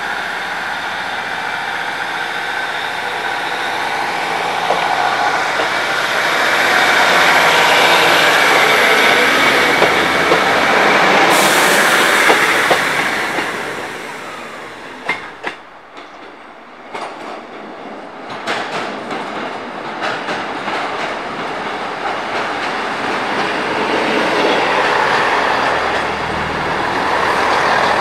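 Diesel multiple-unit trains running past. A Class 150 Sprinter's engine and wheels are loud and steady at first, then fall away with a few sharp clicks about midway. A second diesel unit, a Class 197, grows louder near the end.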